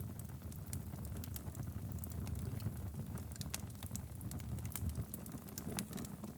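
Wood logs burning in a fireplace: a steady low rumble of flame with frequent sharp crackles and pops scattered throughout.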